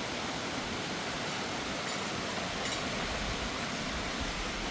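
Steady, even rushing noise, with a few faint high clicks between one and three seconds in.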